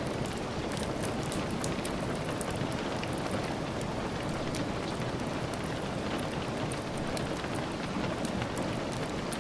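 Steady rain falling, with many small, sharp drop ticks scattered throughout.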